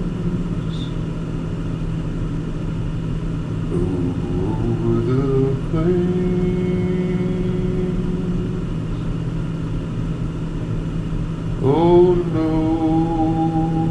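Steady engine and road drone inside a moving car. Over it runs a melody in long held notes: a few short phrases in the first half, then a note that slides upward about twelve seconds in and is held to the end.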